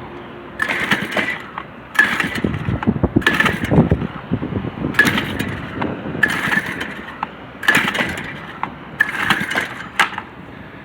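Recoil pull-starter of a 53 cc four-stroke Hiniy engine yanked seven times, about one pull every second and a half, each a short whirring rattle of rope and starter. The engine turns over but never fires: it won't start.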